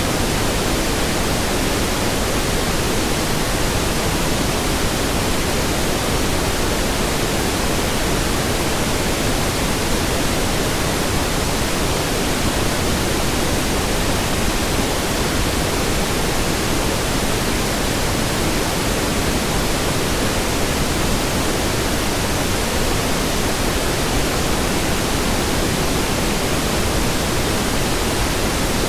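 Steady synthetic pink noise: an even hiss spread across all pitches, unchanging in level.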